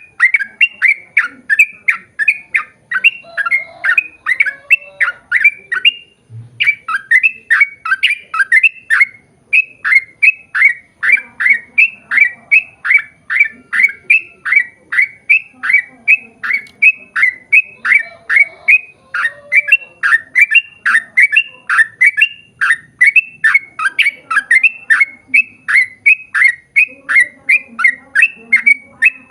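Yellow-vented bulbul (trucukan) singing a long, rapid series of short, slurred notes, about two to three a second, with a brief break about six seconds in.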